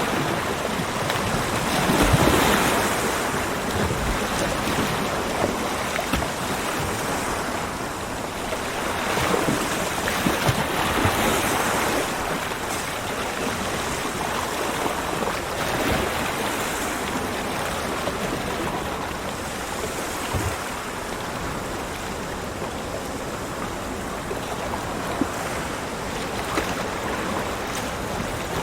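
Ocean waves breaking and washing up a beach, a continuous surf hiss that swells and eases, with the strongest swell about two seconds in.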